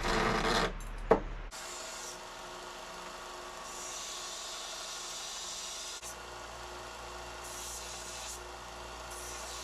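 Sanding steel strips of bandsaw blade and washing-machine sheet, the abrasive rubbing over the metal in stretches of hiss that come and go. It starts with a loud rough stretch and a sharp click.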